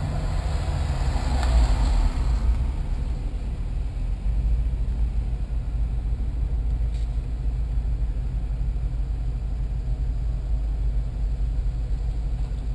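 Car engine and drivetrain heard from inside the car at speed: a steady low rumble, with a louder rush of noise in the first couple of seconds that then dies away.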